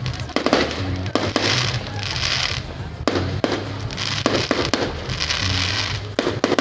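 Fireworks going off: a string of sharp bangs, with two long bursts of crackling, over music playing underneath.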